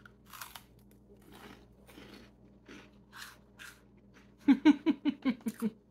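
Mouth crunching and chewing a sugar-coated caramel maple corn puff, a dry crisp crunch about twice a second. Near the end, a quick rhythmic run of about eight short sounds from her voice.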